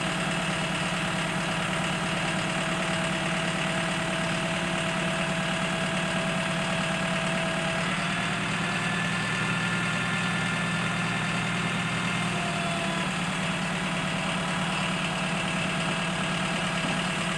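Crane truck's engine running steadily, driving the hydraulic crane as its boom is lowered. The low engine note thickens briefly about halfway through.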